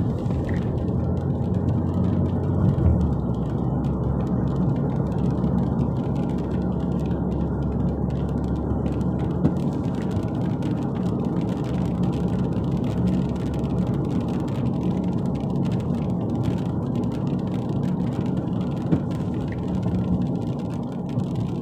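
A vehicle being driven through traffic, with a steady low rumble of engine and road noise.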